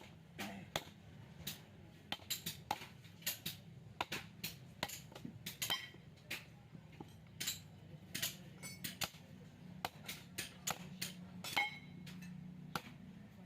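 Irregular sharp metallic taps and clinks from hand tools working on the steel and copper parts of a small refrigerator compressor being dismantled, about two or three a second, some ringing briefly.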